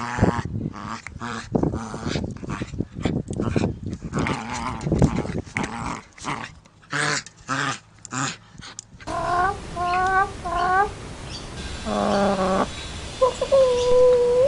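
Dogs growling and yapping in quick short bursts for about nine seconds. Then comes a different recording of short high whining calls, ending in one long, steady whine.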